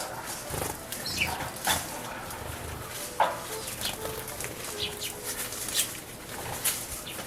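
Eurasian tree sparrows bathing in a bird bath: wings fluttering and water splashing in quick irregular bursts, with short chirps between them.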